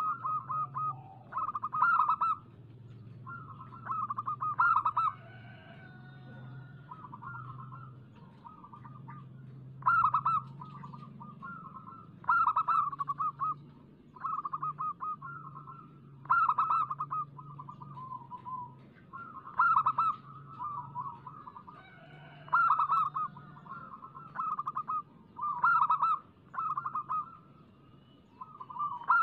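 Zebra doves (local perkutut) cooing in quick trilled phrases, repeated every second or two: perkutut song of the kind played as a lure to set other perkutut singing. A steady low hum runs underneath.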